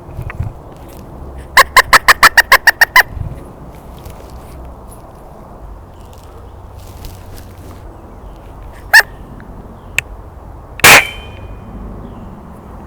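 A Gamo Varmint .177 break-barrel air rifle fires once, a sharp crack about eleven seconds in. Earlier, a rapid run of about ten loud, pitched, chattering calls comes near the start, and a single short call follows about nine seconds in.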